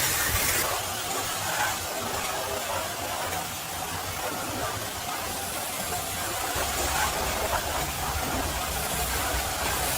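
High-pressure washer spray hissing steadily against a truck, with a low machine hum underneath that grows stronger about two-thirds of the way in.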